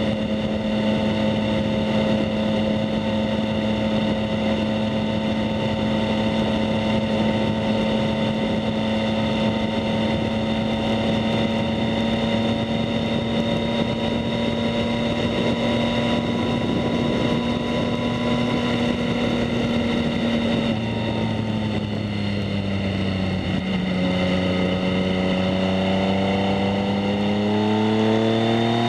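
2019 Yamaha MT-09's 847 cc inline three-cylinder engine running through a Two Brothers S1R full exhaust, holding a steady engine speed while cruising, then easing off about twenty seconds in and climbing in pitch again as it accelerates near the end. Wind noise on the microphone runs under the exhaust note.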